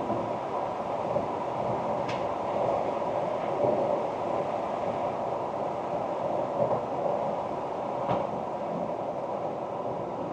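2024 Ford Ranger Wildtrak pickup on the move: a steady rumble of road and drivetrain noise. Two short sharp knocks come through, about two seconds in and again about eight seconds in.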